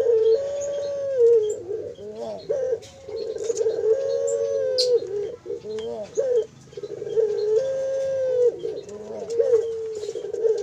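A 20-day-old Barbary dove (puter) chick calling over and over. Each call is a long, steady whine of about a second that steps in pitch and falls off at the end, with short gaps between. Faint high chirps of other birds sit underneath.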